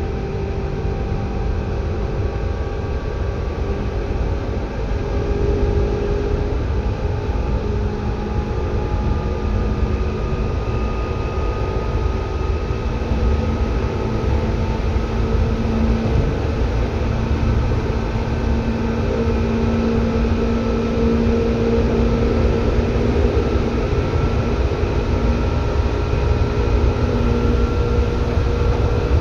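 Seibu 2000 series electric commuter train running, heard from inside the car: a steady low rumble of wheels on track, with several motor tones climbing slowly in pitch.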